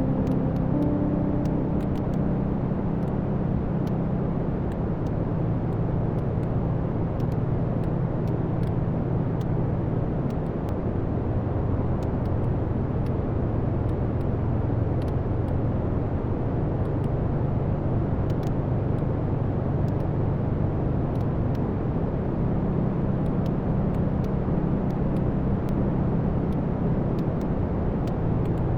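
Wood fire burning in a fireplace: a steady low rumble of the flames with many scattered small crackles and pops from the burning logs.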